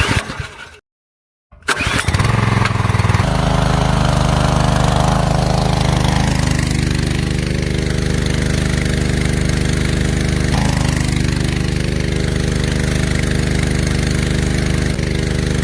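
A small engine starts up about a second and a half in and then runs steadily at an even, unchanging speed.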